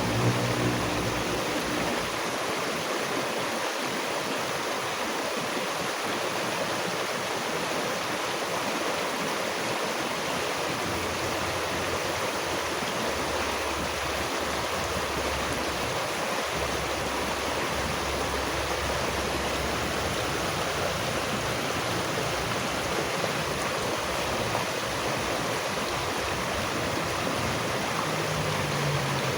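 A stream of water running steadily with an even, unbroken rush. A low hum sits under it in the first couple of seconds and returns near the end.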